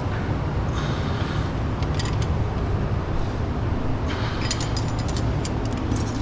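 Light metallic clicks and clinks of hand tools and a feeler gauge against the valve train of a Caterpillar C11 engine as the valve lash is set and locked down, most of them about two seconds in and again near the end. Under them runs a steady low rumble.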